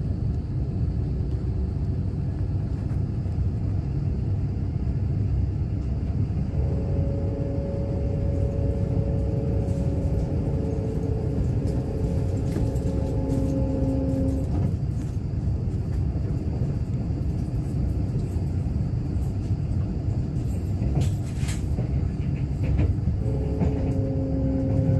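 Kintetsu limited express train running at speed, heard from inside the passenger cabin: a steady low rumble of wheels on rail. A steady tone of several pitches joins about six seconds in, stops about halfway through, and returns near the end.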